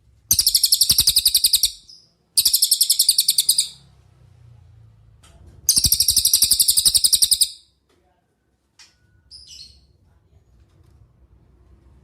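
Cililin songbird singing: three loud, rapid, high-pitched trills of about one and a half seconds each, then a short faint call.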